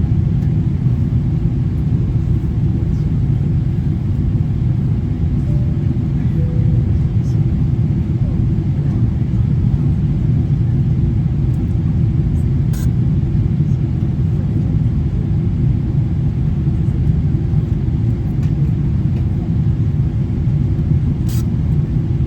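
Steady low rumble of a Boeing 777-300ER airliner cabin in flight: the noise of its GE90 engines and the air rushing past the fuselage, with a faint click now and then.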